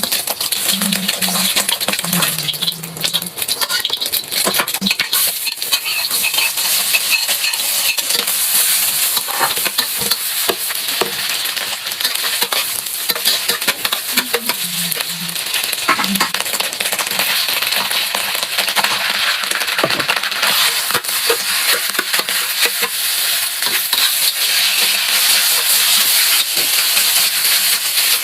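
Food frying in a pan, sizzling steadily while a spatula stirs and scrapes it, with many small clicks of the utensil against the pan.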